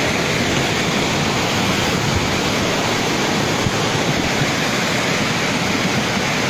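Floodwater rushing past in a torrent: a loud, steady, even rush of water noise with no let-up.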